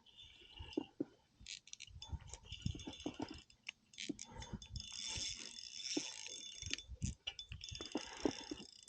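Irregular clicks, knocks and rattles of gear being handled in a kayak, with some brief rustling.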